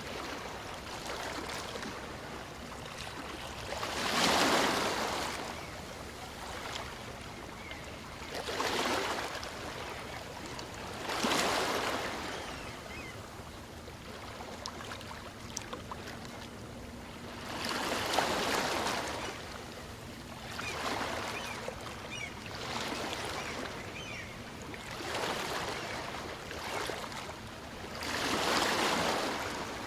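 Small waves on a calm sea breaking and washing up a beach, each swell rising to a hiss and falling away every few seconds, with a softer wash of water between them.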